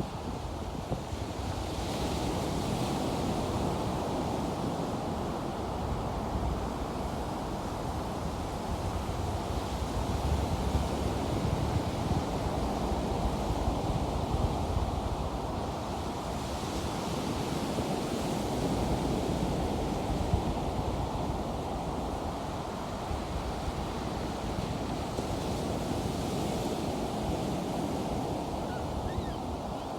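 Ocean surf breaking on a beach: a steady wash of waves that swells a few times as breakers come in, with wind rumbling on the microphone.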